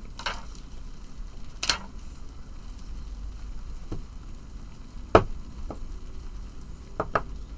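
Scattered clicks and taps of small model-kit parts and tools being handled on a workbench, the sharpest about five seconds in and a quick pair of clicks near the end.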